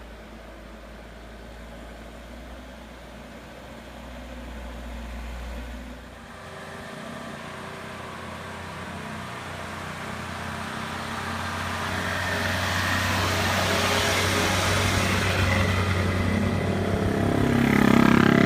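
A heavy vehicle's engine running under load on a climb, growing steadily louder as it approaches and loudest near the end.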